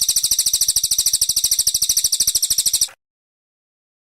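Brown cililin bird (cililin coklat) singing a rapid high-pitched trill of about fifteen notes a second, recorded for bird training; it cuts off abruptly about three seconds in.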